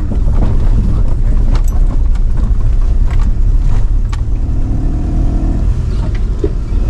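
A vehicle driving over a rough, potholed road, heard from inside: a steady low rumble of engine and road, with scattered knocks and rattles.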